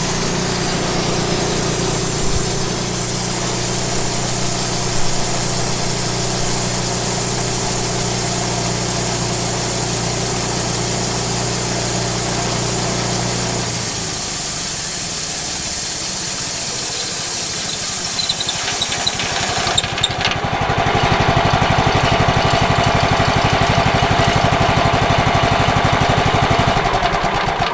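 Engine of a late-1990s Wood-Mizer LT15 band sawmill running steadily. Its sound changes about halfway through and turns louder and higher-pitched about two-thirds of the way in, as if throttled up.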